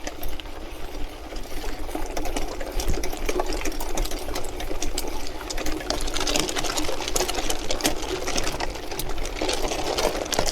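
Mountain bike rolling over gravel: a steady, dense rattling and clicking of the bike and its tyres on loose stones.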